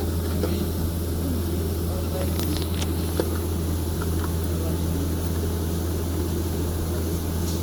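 Steady low machinery hum, with a few faint light clicks about two and a half to three seconds in.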